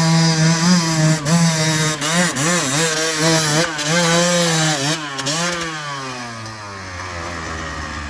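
Enduro dirt bike engine revving hard, the throttle worked on and off so the pitch rises and dips again and again. After about five seconds the revs slide down in one long fall and the sound fades.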